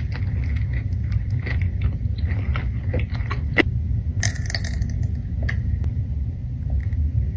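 Close-miked eating: crunching, biting and chewing with scattered short crackles, over a steady low rumble.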